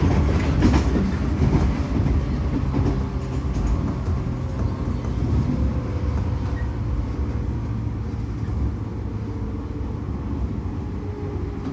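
A JR 115 series electric train running, heard from inside the carriage: wheels rumbling on the rails with a few rail-joint clicks in the first couple of seconds, then a steadier, slightly quieter rumble with a faint tone.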